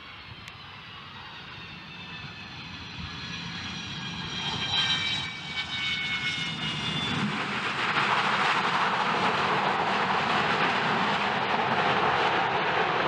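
Boeing 727's three Pratt & Whitney JT8D turbofan engines. The sound grows louder, with high whining tones gliding slowly downward over the first several seconds. About eight seconds in it settles into a loud, steady jet roar.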